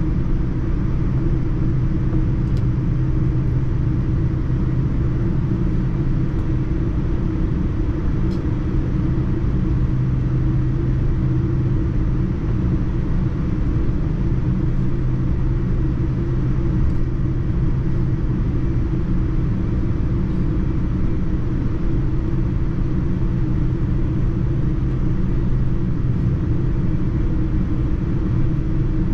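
Steady cabin noise aboard a Boeing 787-9 airliner: a constant rumble of engines and rushing air with a low steady hum underneath.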